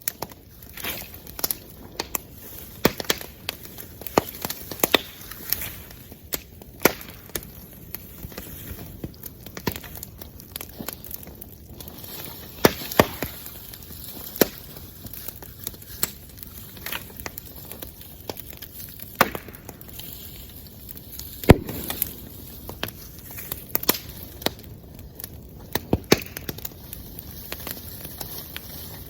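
Wood bonfire crackling, with frequent irregular sharp pops and cracks over a low steady rustle of burning; one especially loud crack comes about two-thirds of the way through.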